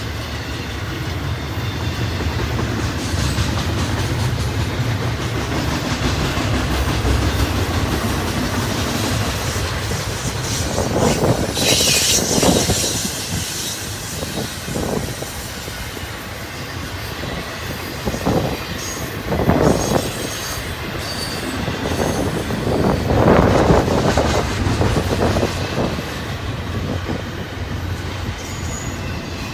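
Double-stack intermodal well cars loaded with containers rolling past close by, a steady rumble of steel wheels on rail with clacking over the joints. About twelve seconds in there is a brief high wheel screech, and later a few louder knocks.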